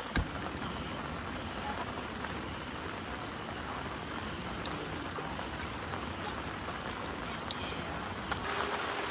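Steady rain falling, an even hiss with a few faint drip ticks. A single sharp click sounds just after the start and is the loudest thing heard.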